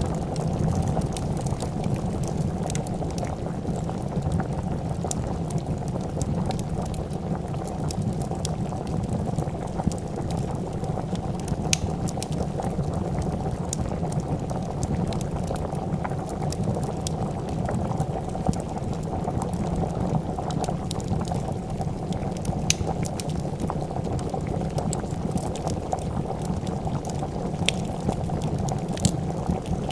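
A pot of soup boiling with a steady bubbling, over which a wood fire crackles with scattered sharp pops.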